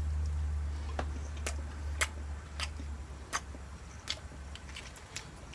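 Close-miked eating sounds: a string of sharp clicks and smacks, roughly two a second, over a low hum that fades away in the first few seconds.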